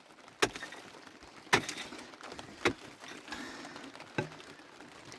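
Four sharp knocks or taps, roughly a second apart, over a faint steady hiss.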